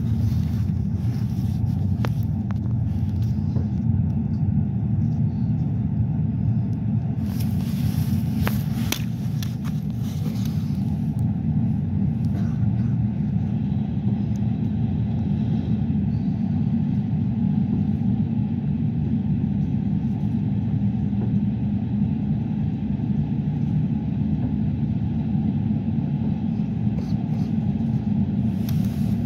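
Steady low rumble of an Intercity passenger train running at speed, heard inside the carriage. A brief rush of louder hiss comes about eight seconds in and fades about two seconds later.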